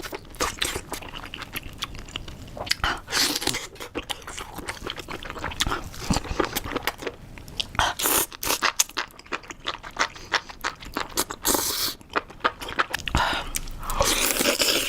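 Close-miked eating: a person bites into and chews crunchy food, a dense run of sharp crackling crunches with a few louder bites.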